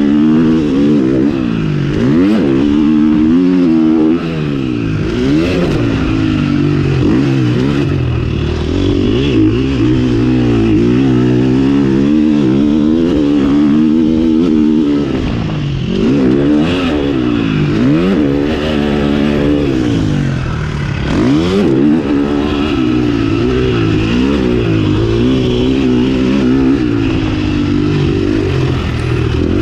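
KTM 350 SX-F's single-cylinder four-stroke engine being ridden hard. It revs up and drops off again and again with throttle and gear changes, with a few brief knocks and clatters along the way.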